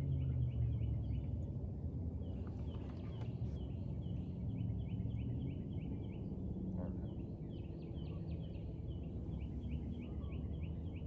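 A songbird singing runs of quick, repeated short notes in bouts of a second or two, over a steady low rumble.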